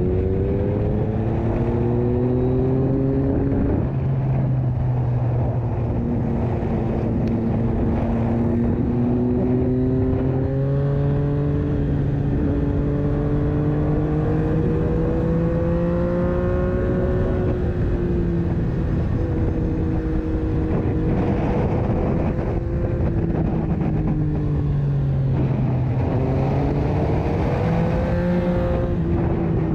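Yamaha MT-09 (FZ-09) three-cylinder engine running through an Akrapovic exhaust while riding at moderate revs. The pitch slowly rises and falls, dipping a few seconds in and again past the middle before climbing once more.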